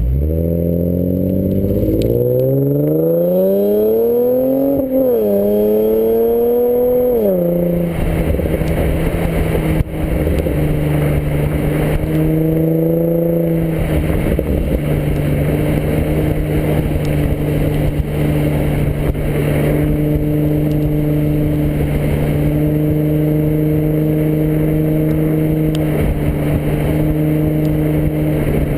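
Infiniti G35 coupe's V6 through an ARK GRiP exhaust, accelerating with the pitch climbing for several seconds, a quick gear change about five seconds in, then climbing again. It eases off near eight seconds in to a steady cruise, with a short rise again around twelve seconds.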